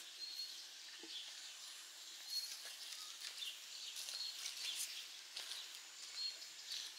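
Faint garden ambience: short high-pitched chirps every second or two, as of a small bird, over light rustling and soft ticks.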